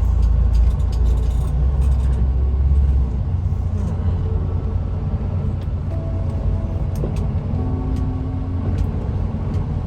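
Semi truck running in slow traffic, heard from inside the cab: a steady low engine and road rumble, a little louder for the first three seconds and then easing.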